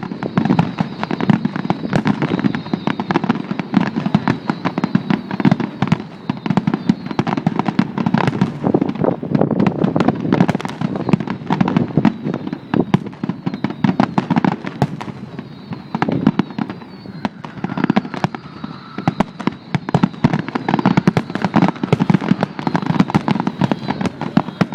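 Fireworks finale, the traca final: a dense, unbroken string of rapid bangs and crackles, easing slightly about two-thirds of the way through before building again.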